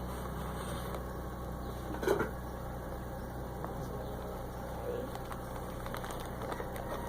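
Steady low machine hum, with a soft knock about two seconds in and a few faint ticks later.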